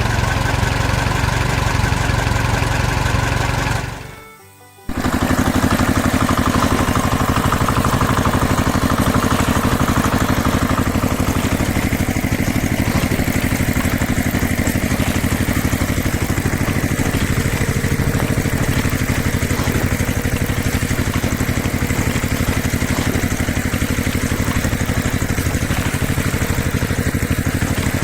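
A motor running steadily with a fast even pulse. It fades away about four seconds in, comes back abruptly a second later and runs on.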